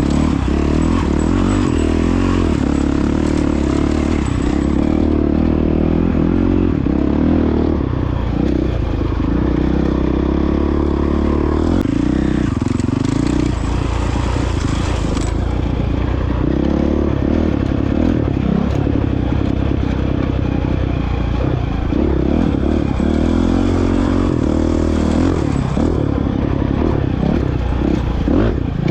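Honda CRF450X single-cylinder four-stroke dirt bike engine running under way off-road, its pitch shifting up and down several times with the throttle.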